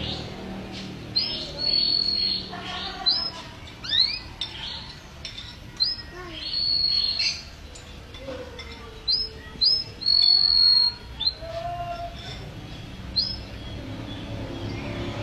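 Domestic canary singing energetically: short, high, repeated chirps broken by a few long held whistles, with one fast rising sweep about four seconds in.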